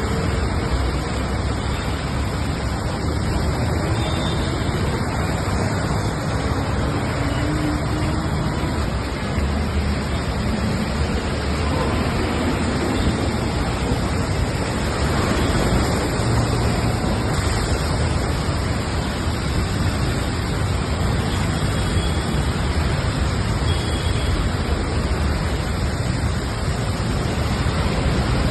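Steady noise of heavy rain, with road traffic running under it.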